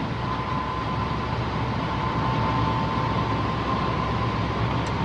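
Intercity electric locomotive moving off, heard from inside the driver's cab: a steady running and rolling noise with a steady high tone through it.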